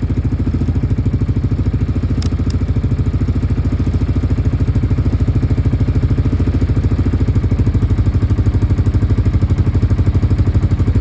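1998 Yamaha Grizzly 600's single-cylinder four-stroke engine idling steadily at a raised idle, with a fast, even beat. Two faint clicks come a little over two seconds in.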